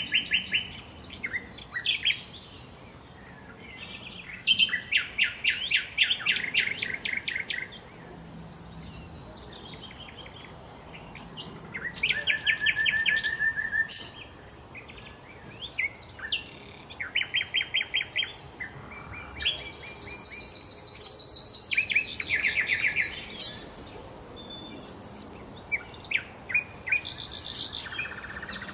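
Songbirds singing: short phrases of rapid trilled notes repeat every few seconds, one higher and longer trill about two-thirds of the way through, with quieter gaps between phrases.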